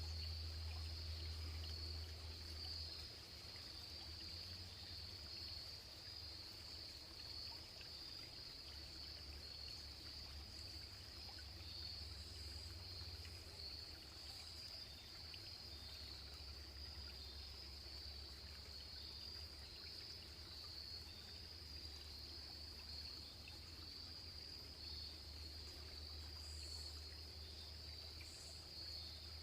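Steady chorus of insects, an unbroken high-pitched trill, over the faint rush of a running stream. Two brief, higher chirps sound near the end.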